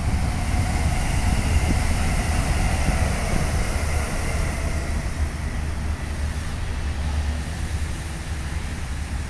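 Jakarta–Bandung high-speed electric train running past: a steady rushing rumble with a faint whine above it, loudest in the first few seconds and slowly easing off.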